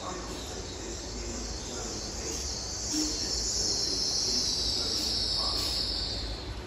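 Class 800 'IET' train arriving and slowing, with a high-pitched squeal that grows louder from about two and a half seconds in, over a low rumble.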